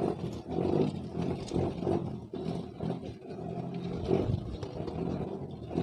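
A boat's engine running steadily, with some scattered knocks and water noise.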